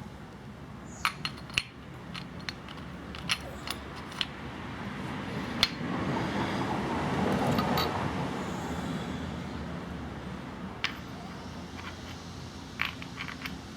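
Scattered metal clinks and clicks of hand tools and engine parts as gears are worked off the clutch side of a 125cc pit bike engine, with a longer stretch of rough scraping noise in the middle.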